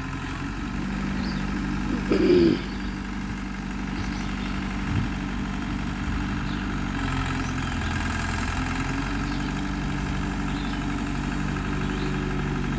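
A vehicle engine running steadily at low revs, its note shifting slightly about seven seconds in, with a brief voice just after two seconds.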